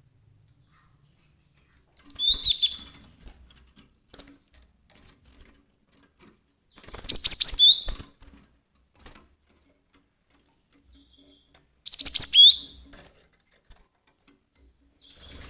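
Cinereous tit (glatik batu) singing: three short bursts of quick, high, ringing notes, about five seconds apart, each lasting about a second.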